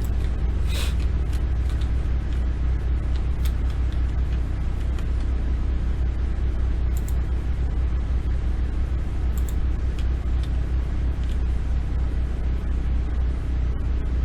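Steady low rumble of background noise, with a few faint scattered clicks.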